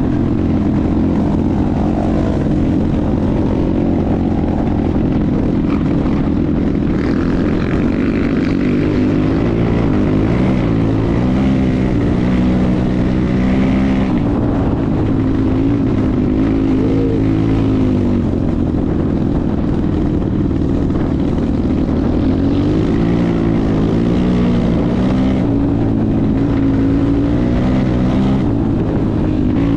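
250 cc single-cylinder enduro motorcycle engine running under way, its revs rising and falling repeatedly with the throttle.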